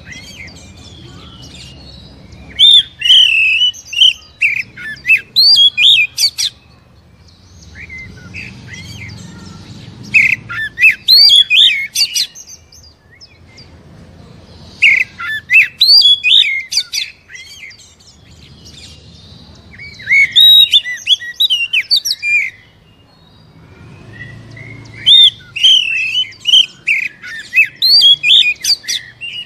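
Oriental magpie-robin (kacer) singing loud, rapidly varied whistles mixed with harsh notes. The song comes in about five bouts of a few seconds each, with short pauses between them. It is the full, harsh kind of song used as a lure to provoke another kacer into answering.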